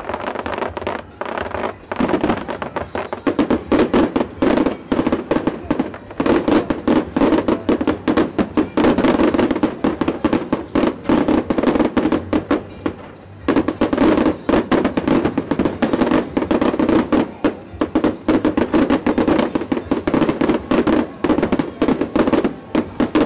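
Aerial fireworks going off in a dense barrage: a rapid, continuous crackle and popping of many bursting shells, broken by short lulls about 2, 6 and 13 seconds in.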